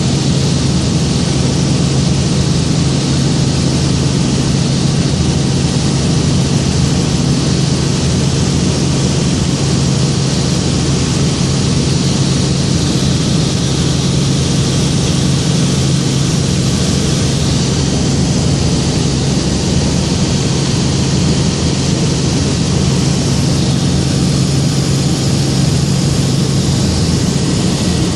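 Helicopter's engine and rotor noise, a loud, steady low hum with a hiss on top.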